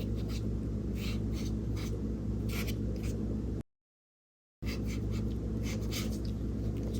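Small flat paintbrush stroking and dabbing acrylic paint onto gesso-primed paper in a series of short brushing strokes, over a steady low hum. The sound cuts out completely for about a second midway.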